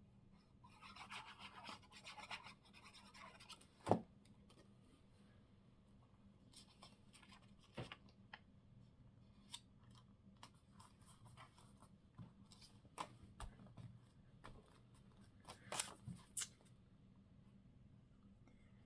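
Quiet paper-craft handling at a desk: a short rasp of paper being worked about a second in, then scattered small clicks and taps of paper pieces and tools being moved, the sharpest about four seconds in.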